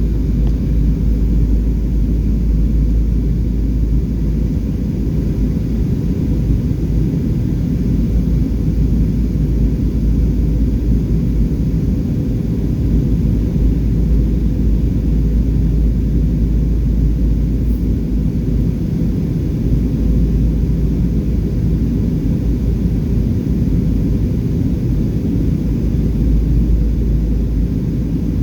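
Steady low drone of a passenger airliner in flight, heard from inside the cabin: engine and airflow noise with a faint steady hum.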